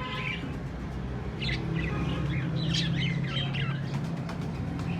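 Many small caged birds chirping and calling over one another in a busy chorus, with a steady low hum underneath.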